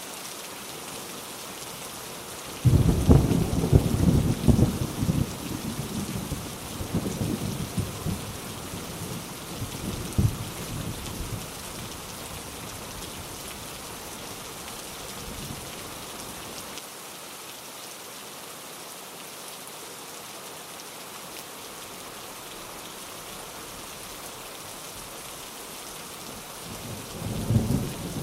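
Steady rain falling, with a sudden loud thunderclap a few seconds in that rumbles on in waves and dies away over about ten seconds. A second roll of thunder builds near the end.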